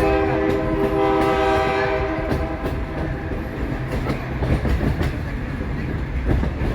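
EMD F40PHM-2 diesel locomotive's air horn sounding one long blast from just ahead of an open coach, ending about two seconds in. The locomotive runs on under it, with wheels clicking over the rail joints.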